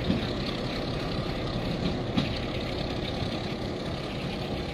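Bangladesh Railway passenger train pulling away along the track: a steady low rumble from the diesel locomotive and coaches, with two short knocks, one at the start and one about two seconds in.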